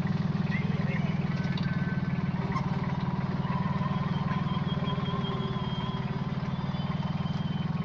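Sonalika 26 hp mini tractor's diesel engine running steadily at an even speed.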